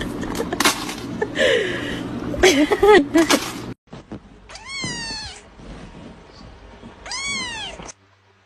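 A domestic cat meowing twice, two long drawn-out meows a couple of seconds apart, each rising then falling in pitch. Before them comes a few seconds of loud, noisy scuffling that cuts off suddenly.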